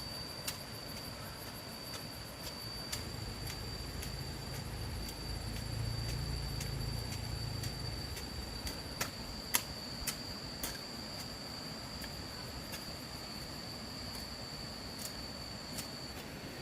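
Insects, likely crickets, trilling steadily in one high note, with scattered sharp clicks, the loudest about nine and a half seconds in, and a low rumble from about three to eight seconds in.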